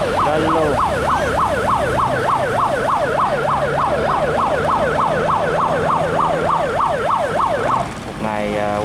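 Electronic siren sounding a fast yelp, its pitch sweeping up and down about four times a second, over a steady low hum. It stops near the end and a short steady tone follows.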